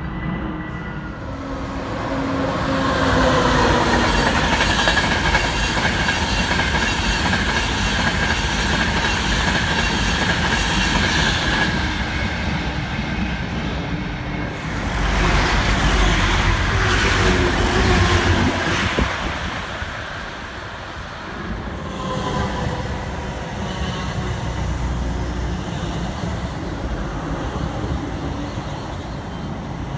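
Electric trains at a station platform. A Great Northern electric multiple unit draws in with a steady high whine. About halfway through, an express runs through at speed with a loud rush and deep rumble. Near the end another Great Northern unit runs along the platform.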